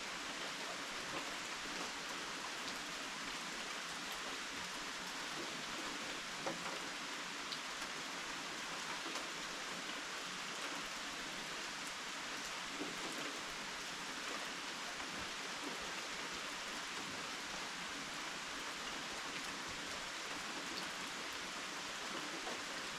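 Steady rain falling, an even hiss with a few sharper drip ticks here and there.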